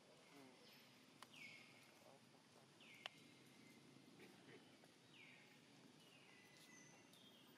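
Faint bird call repeated about five times, each falling in pitch and then holding, over quiet outdoor ambience. Two sharp clicks, about a second in and about three seconds in, the second the loudest sound.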